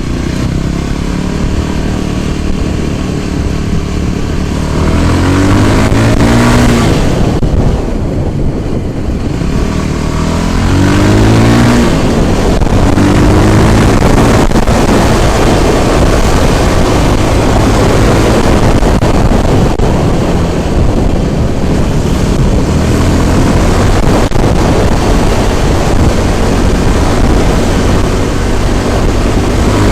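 Motor scooter engine running under way, its pitch rising and falling several times as the throttle opens and closes, with wind buffeting the microphone.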